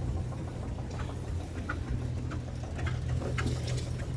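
A steady low engine hum with light, irregular ticking over it.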